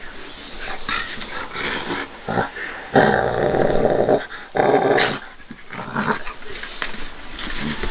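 Dogs growling in rough play, in a string of ragged growls with the loudest, longest one about three seconds in and another shortly after.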